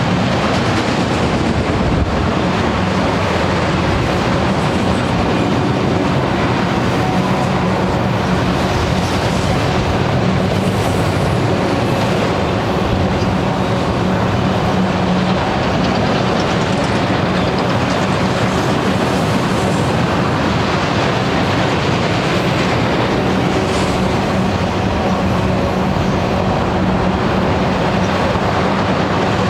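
Union Pacific freight train's cars rolling past, a loud, steady run of wheel and rail noise with a low hum underneath.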